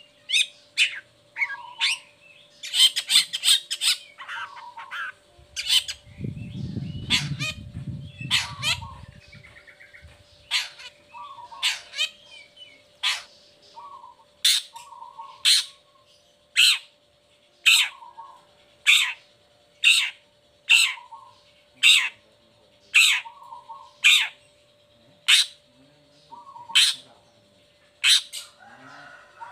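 Long-tailed shrike (cendet) giving short, harsh calls over and over, about one a second, with a quick flurry of calls near the start. A steady faint hum runs underneath, and a low rumble comes in for a few seconds about a quarter of the way through.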